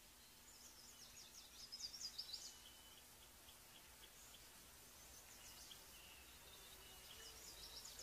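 Faint, high-pitched bird song: a quick series of sharp notes for about two seconds near the start and again briefly near the end, over a quiet background hiss.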